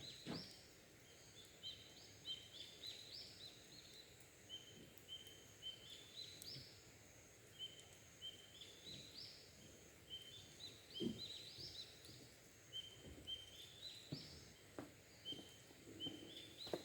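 Faint bird song: a small songbird repeating a short phrase of notes that climb in steps, about six times, with a few seconds' pause between phrases.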